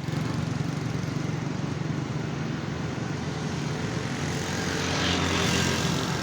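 Road traffic running steadily, with one vehicle swelling louder as it passes about five seconds in.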